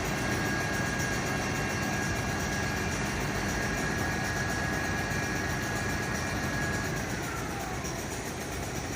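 Fire truck engine idling, with a steady high whine over it that drops in pitch and dies away about seven seconds in.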